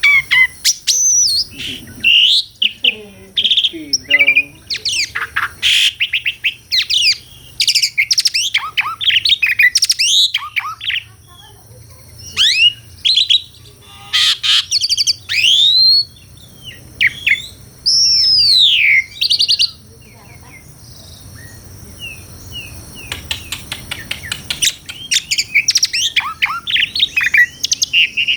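Asian pied starling (jalak suren) singing a long, varied song of whistles, chirps and rapid clicking rattles, with arched rising-and-falling whistled notes. The song pauses for a few seconds past the middle, then resumes with fast chattering.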